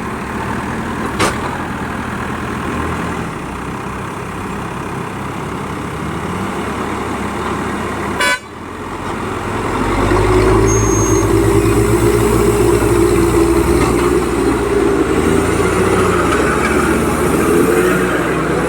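Heavy diesel engines of a tanker truck and the JCB backhoe loader towing it up a slope, running steadily. A short horn toot sounds about eight seconds in. About ten seconds in the engines grow louder and heavier, working hard under load.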